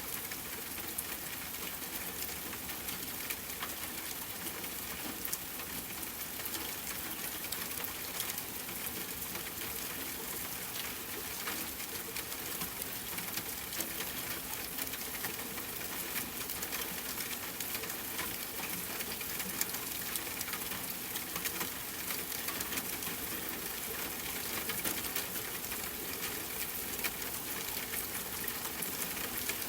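Steady rain on a tent mixed with campfire crackling: an even hiss scattered with many small ticks and pops.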